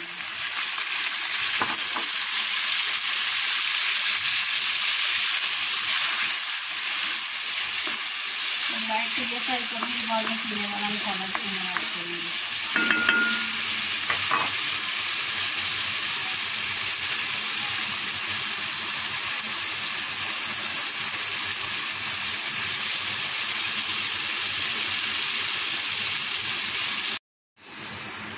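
Chopped greens frying in hot oil in an aluminium kadai: a steady sizzle that breaks off suddenly for a moment near the end.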